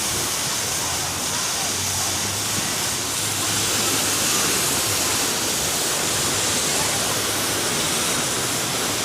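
Steady rush of flowing, splashing water, an even hiss with no breaks or single splashes standing out.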